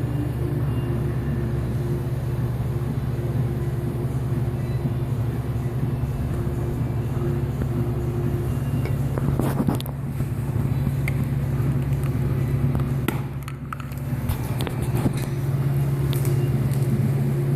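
Steady low mechanical hum with a pulsing higher tone over it and a few faint clicks and taps; it dips briefly about thirteen seconds in.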